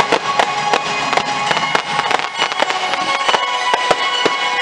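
Fireworks shells bursting and crackling in rapid succession, several reports a second, over loud music from the show's soundtrack.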